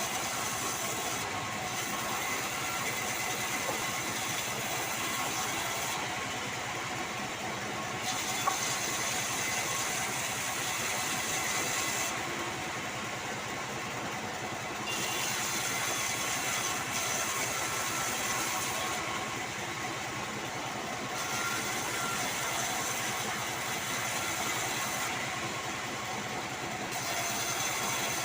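Sawmill band saw running while sengon logs are cut, a steady machine drone with a high hiss over it. The hiss drops away for a second or two about every six seconds, then comes back.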